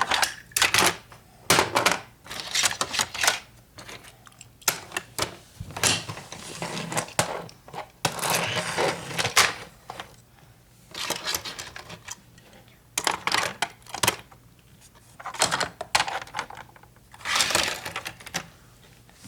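Toys being handled and knocked about: an irregular run of sharp clicks, knocks and clatters of hard plastic and diecast pieces, with a few short scraping or sliding sounds.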